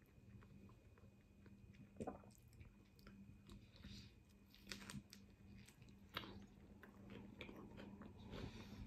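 Faint close-up chewing and biting of a chicken shawarma wrap: soft wet mouth sounds with scattered clicks and a few sharper crunchy snaps, the loudest about two seconds in and again around five and six seconds.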